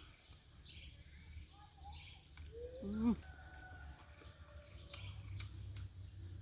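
Birds calling, with one louder, falling call about three seconds in and a few short clicks.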